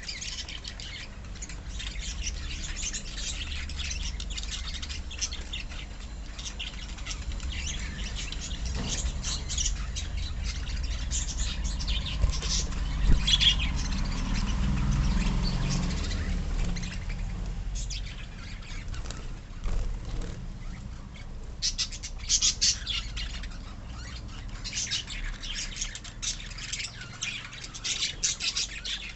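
A flock of lovebirds chattering, with many rapid high chirps and squawks, thinning out in the middle and growing dense again later. A low rumble rises in the middle stretch.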